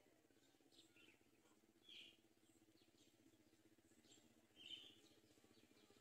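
Faint short bird chirps, one about two seconds in and another near five seconds, over a low steady hum.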